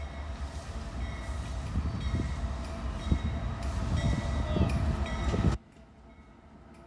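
A freight train passing close by: a heavy low rumble of locomotive and wagons on the rails, with steady high ringing tones and brief squeals from the wheels. About five and a half seconds in it cuts off abruptly, leaving a much fainter rumble that slowly builds.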